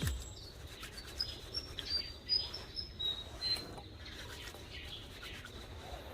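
Faint, short, high bird chirps, scattered over the first few seconds, over a low background hum.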